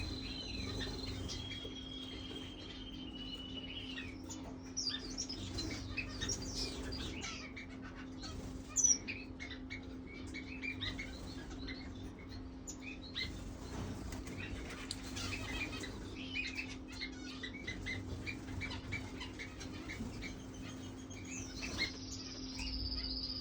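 Caged birds chirping and twittering throughout, many short high calls with a few longer whistled notes near the start and near the end, over a steady low hum.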